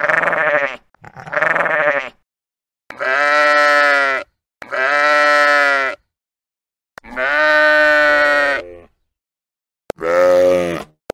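A sheep bleating six times. The first two bleats are short and quavering, the next three are longer and held, and a lower, shorter bleat comes near the end.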